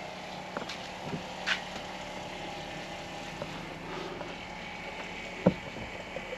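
Truck-shower water pump running with a steady hum, still pushing air through the line before the water arrives. A couple of brief knocks sound over it.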